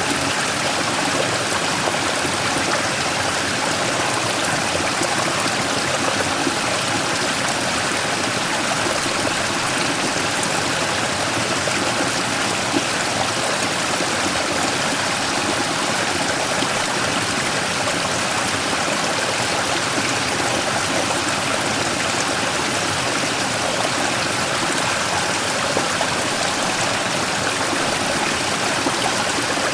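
Small mountain stream rushing and splashing over a large rock, a steady, even sound of running water.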